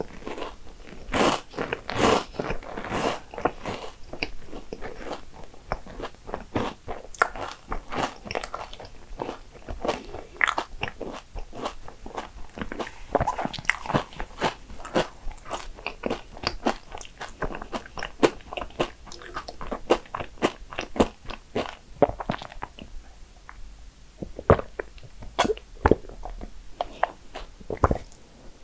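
Close-miked chewing and mouth sounds of someone eating a mouthful of soft pastry: wet smacks and clicks, dense at first and thinning out over the last several seconds. A single low knock comes near the end.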